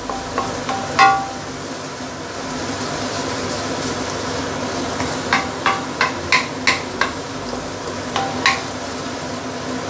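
Sambal paste of chili and belacan sizzling in oil in a stainless steel wok on medium heat while it is stirred with a wooden spatula. Sharp knocks of the spatula against the pan come once about a second in, then in a quick run of about six in the middle, and again near the end.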